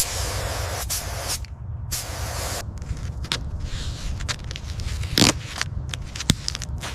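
Steady hissing noise broken by many short clicks and scrapes, with brief gaps and a louder scrape about five seconds in.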